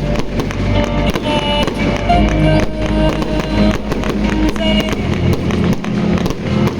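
Fireworks going off in quick succession, many sharp bangs and crackles, over loud music with held notes.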